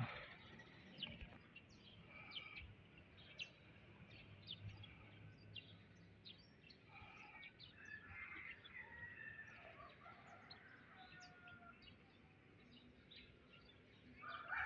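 Faint birdsong: many short, high chirps scattered throughout, with a few longer whistled notes.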